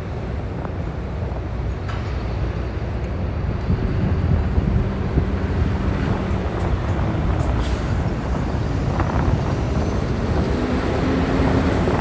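Heavy diesel cargo trucks driving off a car ferry, their engines making a dense low rumble that swells about four seconds in.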